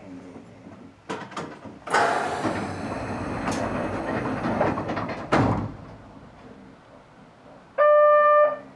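Narrow-gauge commuter train's sliding passenger doors working: a few clicks, a few seconds of hissing and sliding, then a thud as they shut. Near the end a short electronic beep sounds.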